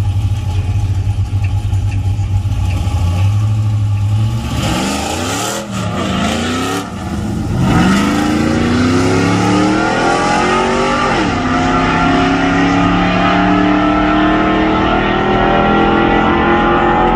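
Drag-racing engine idling low, then revved up and down, then pulling hard under full acceleration with its pitch climbing steadily. The pitch drops sharply at a gear shift partway through, then climbs again.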